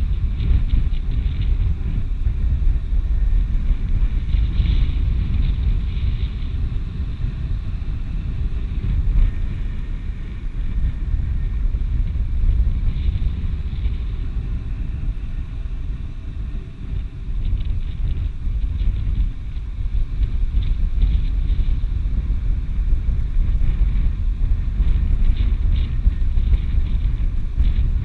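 Wind buffeting the microphone: a loud, gusty low rumble with a fainter hiss, rising and falling unevenly.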